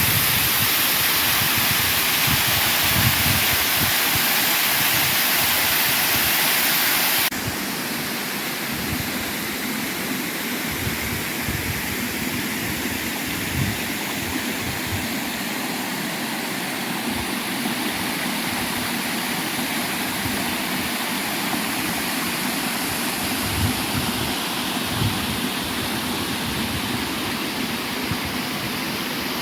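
Waterfall rushing, a steady noise of falling water. About seven seconds in it drops abruptly to a softer, duller rush.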